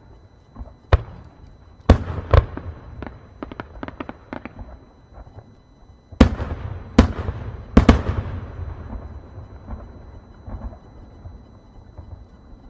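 Fireworks going off: a few sharp bangs, then a quick run of smaller crackles, then three loud bangs about a second apart, each trailing a rumbling echo that slowly dies away.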